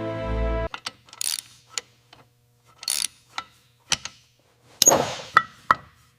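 Music that cuts off suddenly near the start, followed by a series of sharp metallic clicks, knocks and short scrapes, a few of them ringing briefly: metal parts being handled and knocked together.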